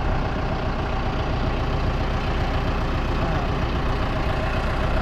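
Engine of farm machinery idling steadily: a low, even drone with no change in speed.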